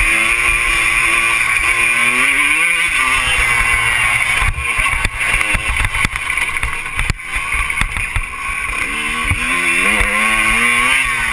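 Motocross bike engine revving up and dropping back as it is ridden, its pitch rising in runs near the start and again near the end, over steady wind rush and frequent thumps from the bumps of the track.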